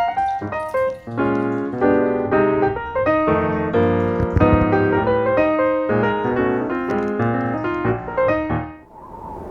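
Background piano music with many quick notes. It fades out near the end and gives way to a steady noise.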